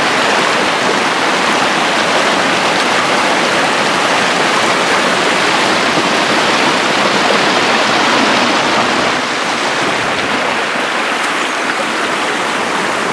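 Mountain creek rushing over rocks: a loud, steady, even rush of water that eases slightly about nine seconds in.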